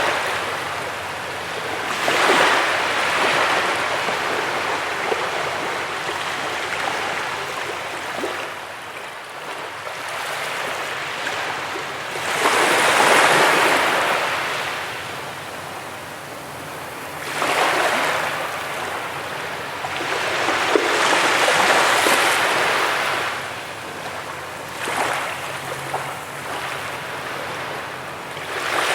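Sea waves breaking on a beach: surf washing in in repeated swells every few seconds, each rising to a loud hiss and then falling back.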